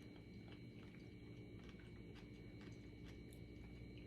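Near silence: a faint steady electrical hum with soft, scattered clicks of chewing.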